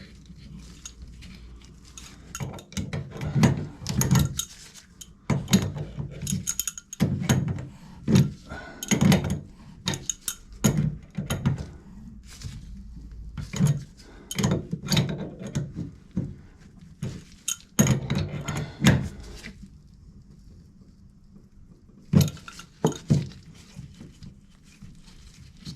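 Irregular metal knocks and clinks of hand tools and plumbing fittings being handled, in clusters, with a quieter pause a few seconds before the end.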